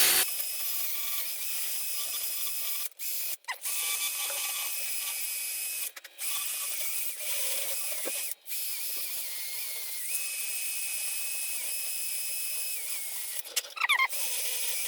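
Cordless drill spinning a small round burr against the steel frame, grinding off paint to bare metal ready for welding. It is a steady high whine with a grinding rasp that stops briefly several times as the trigger is let off.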